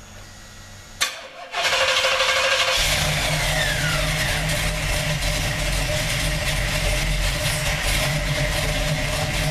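Big-block V8 engine in a Chevy Nova starting for its first test fire on newly installed TECgt engine management: a loud click about a second in, then the engine catches about three seconds in and runs steadily.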